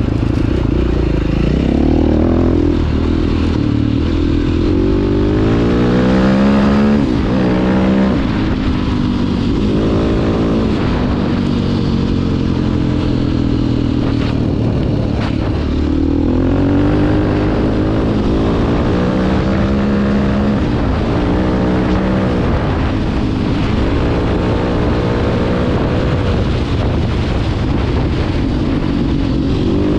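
Single-cylinder four-stroke engine of a 2009 KTM 530 EXC enduro bike, ridden on a trail. The revs rise and drop over and over as the rider works the throttle and shifts gears.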